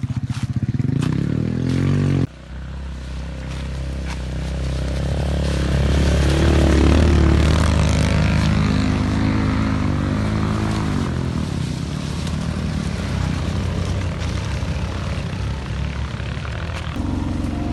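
Motorcycle engine revving and pulling, rising in pitch for about two seconds, then dropping abruptly to a lower, steady run that swells and eases as the bike climbs a rough trail.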